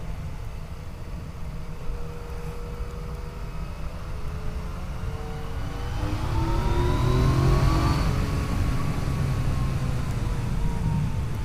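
Yamaha FJ-09's inline-three engine on the move with steady low wind rumble; in the second half the engine pitch rises over a couple of seconds as the bike accelerates and gets louder, then eases off.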